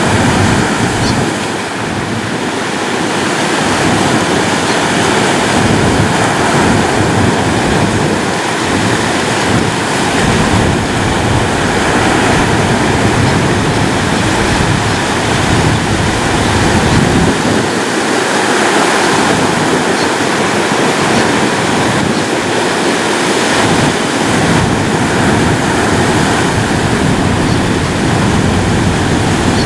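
Ocean waves breaking and washing on a shore: a continuous rushing surf with slow swells in loudness.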